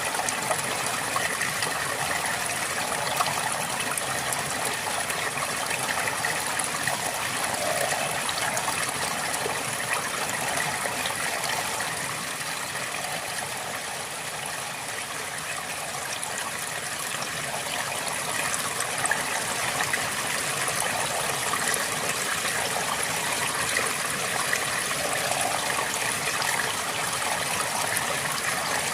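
A river flowing steadily over rocks: continuous rushing and gurgling water with fine splashing, easing slightly for a few seconds in the middle.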